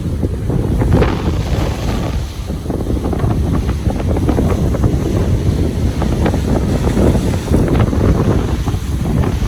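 Ocean surf washing onto a beach, with strong wind buffeting the microphone in a constant low rumble.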